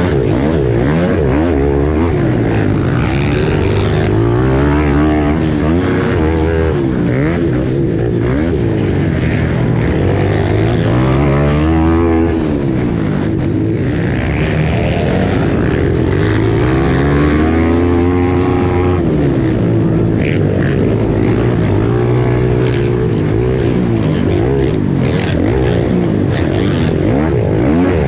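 Pit bike engine racing, its pitch climbing and dropping again and again as the throttle is opened and closed through the laps.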